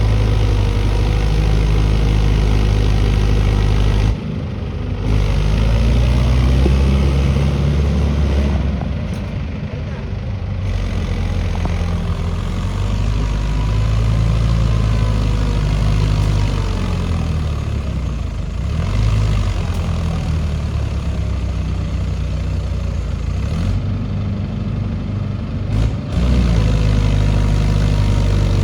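Mahindra Yuvo Tech tractor's diesel engine running under load, its pitch rising and falling again and again as the revs change. The sound breaks off abruptly a few times, about four seconds in, near ten seconds and shortly before the end.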